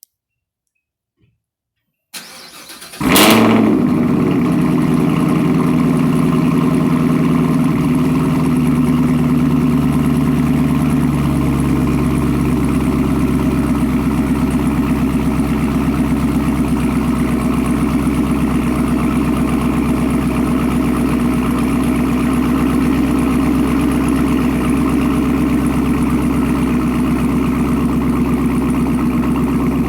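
Chevrolet Camaro ZL1's supercharged V8 through an AWE Touring exhaust, cold-started: the starter cranks briefly about two seconds in, the engine catches with a loud flare, then settles into a steady fast cold idle whose pitch drops a little about eleven seconds in.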